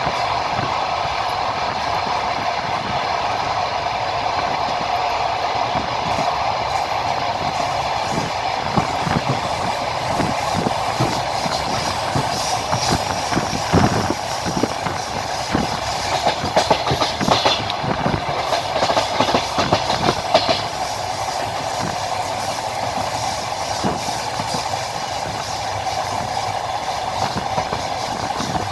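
Wheels of a moving train clattering over the rail joints, over a steady rolling noise; the knocks come thickest in the middle stretch.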